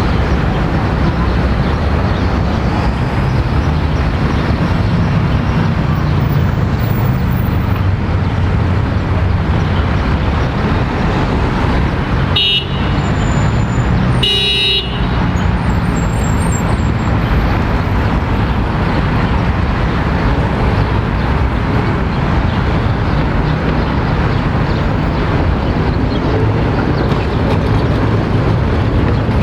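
City street traffic running steadily, with two short horn toots about twelve and fourteen seconds in.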